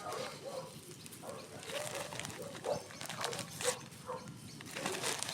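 Short, repeated animal calls a few times a second, with sharp crackles from a campfire among them.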